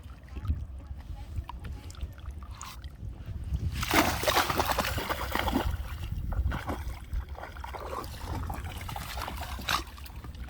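Water splashing and sloshing, loudest for about two seconds starting some four seconds in, over a steady low rumble.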